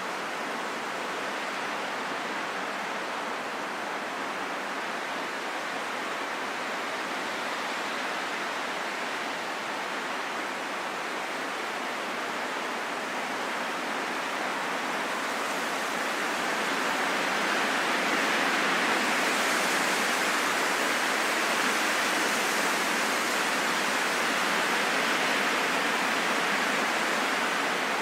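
Steady rain falling in a forest, an even hiss that grows somewhat louder a little past the middle.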